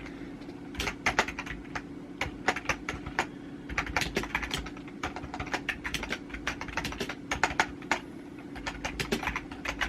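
A run of light, irregular clicks, several a second, over a steady low hum.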